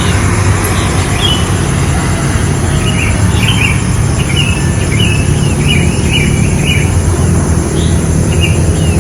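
Small birds chirping, short repeated calls that come thickest in the middle, over a steady low rumble.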